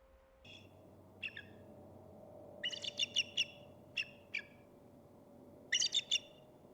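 A songbird chirping in short, sharp calls, some single and some in quick runs of three or four, over a faint steady hum.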